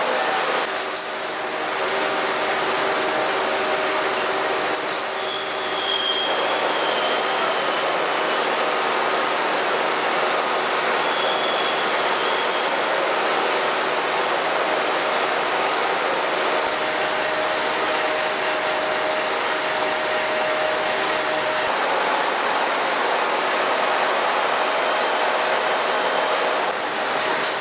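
KB-3 "Profi" three-spindle log rounding machine running: a steady, dense machine noise with a hum underneath. A faint, brief high squeal comes twice in the first half, and the sound shifts slightly at a few points where shots change.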